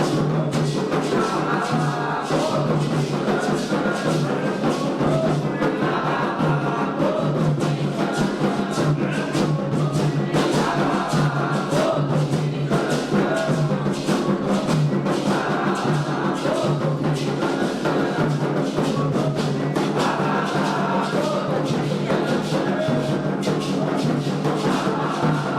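Candomblé ritual music: atabaque hand drums beating a fast, steady rhythm under group singing of a chant to Ayrá, the sung phrases returning every few seconds.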